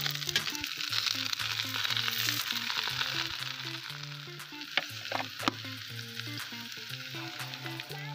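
Potatoes frying in a cast-iron kazan, sizzling and crackling steadily as mushrooms and pork cracklings are tipped in and stirred through. Two sharp clinks come a little past the middle, and quiet background music with a low melody plays underneath.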